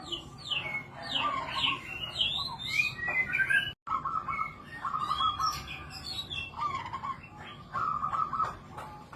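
Zebra dove (perkutut) calls mixed with other birds chirping in quick, falling notes; the sound breaks off for an instant about four seconds in.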